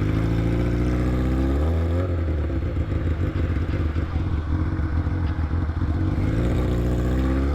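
Motorcycle engine running with its exhaust tip fallen off, which makes it sound weird. The engine speed rises about two seconds in, settles, then climbs slowly again near the end.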